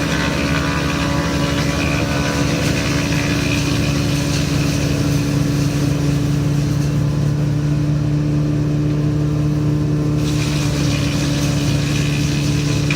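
Wood chipper's engine running steadily at speed. A higher rattling noise over the engine drops away for about three seconds past the middle, then returns.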